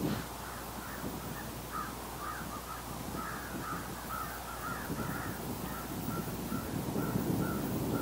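Bird calling in a long run of short calls, about three a second, starting about two seconds in.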